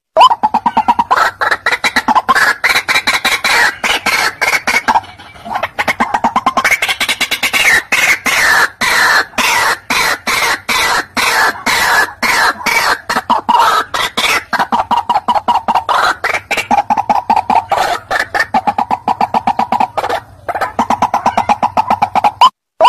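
White-breasted waterhen (ruak-ruak) calling: a long, rapid run of harsh repeated notes, several a second, with short lulls about five seconds in and again near twenty seconds.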